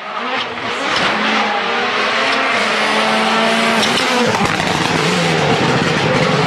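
Rally car engine running hard at high revs, over dense road and tyre noise, with a brief drop in revs about four and a half seconds in.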